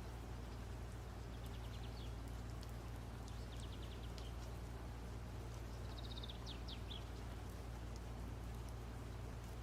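Faint bird chirping: several quick runs of short, high, falling notes over a steady low hum.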